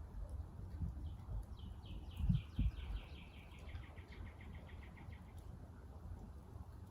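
A songbird singing a trill of about fifteen quick repeated notes that step down in pitch, lasting about four seconds. Two low thumps near the start of the trill.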